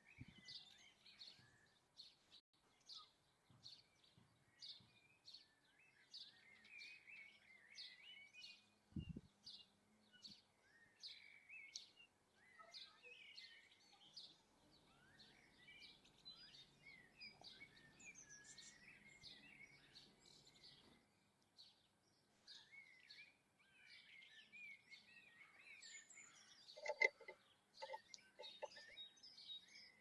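Small garden birds chirping and twittering, with a run of short, evenly repeated chirps about two a second through the first half. A single low knock comes about nine seconds in, and several louder, lower calls come near the end.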